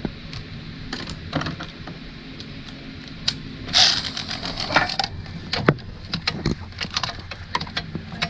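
Hand tools clicking and clinking against metal as small bolts are worked out, with irregular sharp clicks throughout and a short rasp about four seconds in, over a steady low hum.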